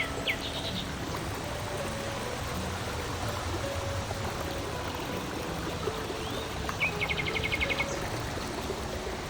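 Steady rush of running water, like a woodland stream. A songbird gives one rapid trill about seven seconds in, and soft background music runs underneath.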